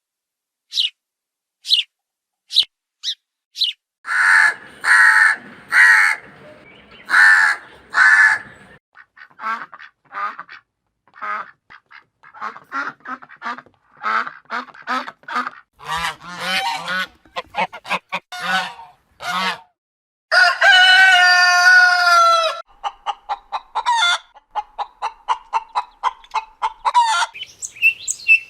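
Calls of several different bird species in turn. First come short high notes, then loud repeated calls about four to eight seconds in, then runs of quick repeated notes, a single long call held for about two seconds past the twenty-second mark, and a fast series of short notes near the end.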